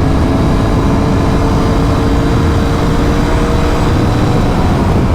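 Royal Enfield Continental GT running under a steady pull on its stock exhaust while being ridden. Its engine note holds level under a loud, low rush of noise.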